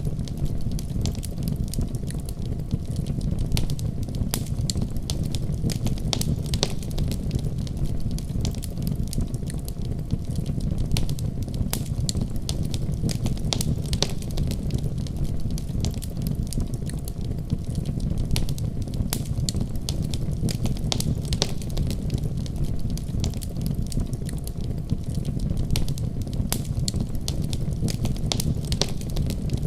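Wood fire crackling in a fireplace, with many sharp pops and snaps scattered throughout over a steady low rumble.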